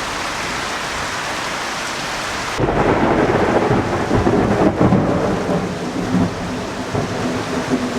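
Heavy rain hissing steadily. About two and a half seconds in, it abruptly gives way to louder, deeper, fluctuating gusts of wind-driven rain.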